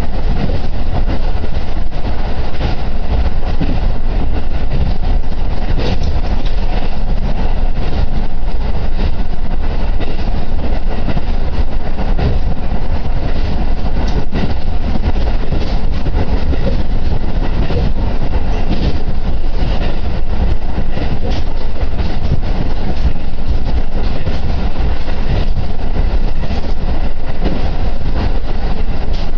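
Diesel railcar running along the line, heard from inside the carriage: a steady, loud rumble.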